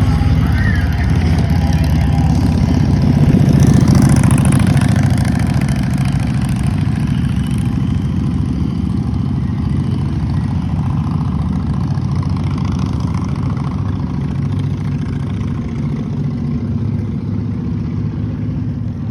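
A motor vehicle engine running steadily with road noise. It is loudest a few seconds in, then slowly eases off.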